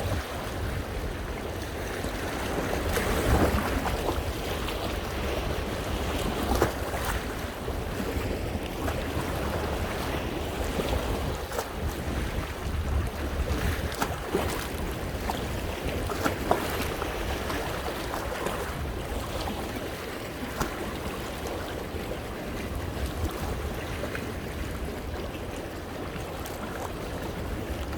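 Sea waves washing in against coastal rocks, the splash swelling and easing every few seconds. Wind rumbles on the microphone underneath.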